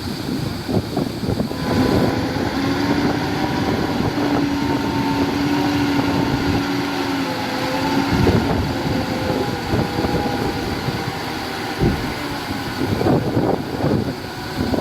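Heavy diesel engine of earthmoving machinery running under load, its pitch holding steady with slight rises and falls, with wind on the microphone. Rattling and clanking in the first second or two and again near the end.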